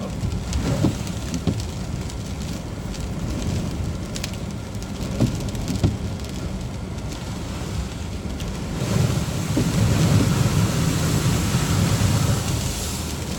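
Steady road and tyre noise heard from inside a moving car, with a hiss over a low rumble and a few small knocks. It swells louder from about nine seconds in and eases near the end.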